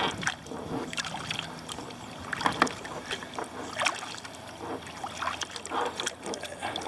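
Kayak paddle strokes on flat water: the blades dip and splash irregularly, about once a second, with water trickling off them between strokes.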